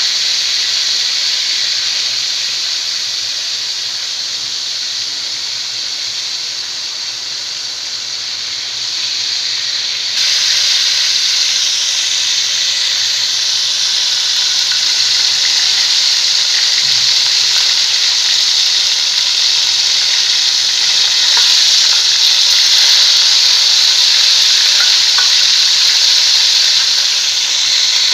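Chicken pieces frying in hot oil in a steel pan: a steady sizzle that grows louder about ten seconds in, with a metal spatula now and then scraping the pan as the pieces are turned.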